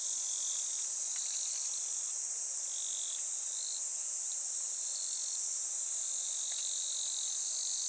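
Insect chorus: a continuous high-pitched shrill drone, with shorter separate trills of a slightly lower pitch coming and going every second or so.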